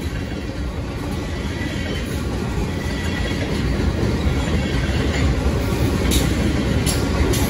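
Freight train of loaded tank cars rolling past at track speed, a steady rumble of steel wheels on rail that grows slightly louder, with a few sharp clicks from the wheels about six to seven seconds in.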